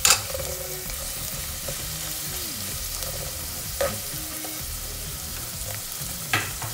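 Chopped garlic and coriander sizzling in hot oil in an aluminium pot, stirred with a metal fork that knocks against the pot three times.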